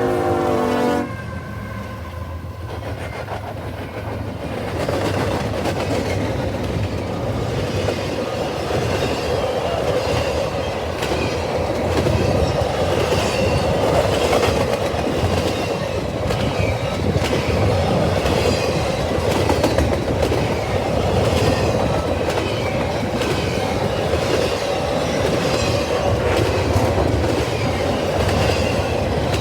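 A long CSX intermodal freight train passing close by: the locomotive's horn cuts off about a second in, then a steady rumble and clatter of the cars' wheels over the rail joints.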